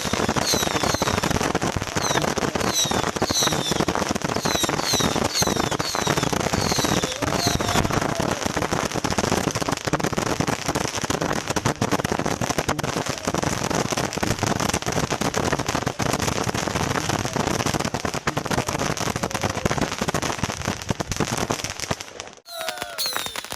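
Dense, continuous crackling and popping of many fireworks going off at once, with short high whistles through the first several seconds. The sound breaks off abruptly near the end, then resumes.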